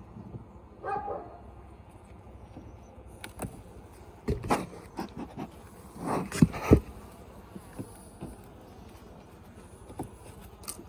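Clunks and knocks of wooden beehive equipment being handled, the loudest a few thumps about six seconds in, over a faint hum of honeybees. A dog barks once about a second in.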